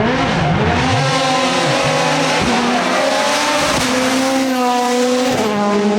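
Rally car engine revving hard under acceleration, its pitch falling and rising over the first second or so, then climbing steadily until a sharp drop about five seconds in as it shifts up, before climbing again.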